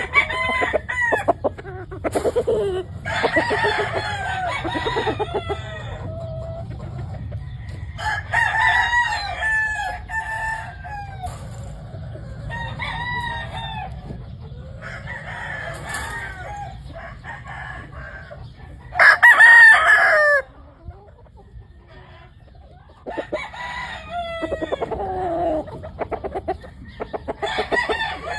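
Gamefowl roosters crowing one after another, with some clucking between the crows. The loudest crow comes about two-thirds of the way through.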